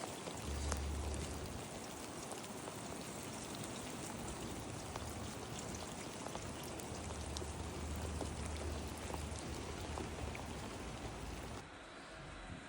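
Wet snow and rain falling: a steady hiss with many small ticks of large wet flakes and drops landing, and low rumbles twice. About a second before the end it gives way to a quieter, duller background.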